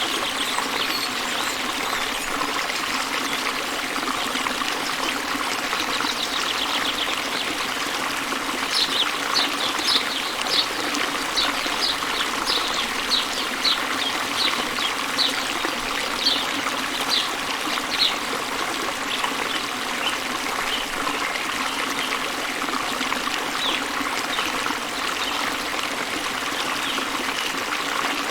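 Steady rush of a waterfall, with a bird chirping in short, high notes about twice a second from about 9 to 18 seconds in, then a few scattered chirps.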